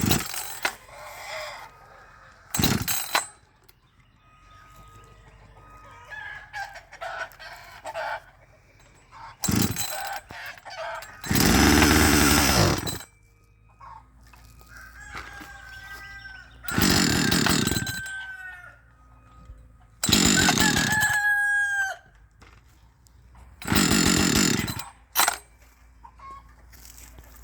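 Husqvarna 555 two-stroke chainsaw being pull-started on choke again and again, firing for a second or so each time and dying; the owner puts the stalling down to fuel. A rooster crows several times.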